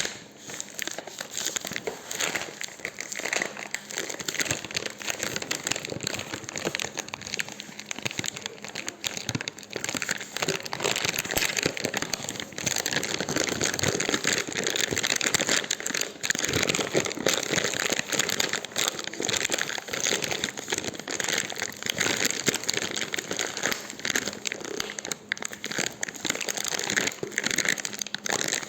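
Campfire crackling: a steady, dense stream of small irregular snaps and pops.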